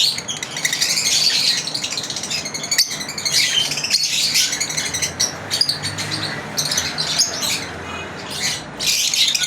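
Several lovebirds chirping continuously, with many short, high calls overlapping in a busy chatter.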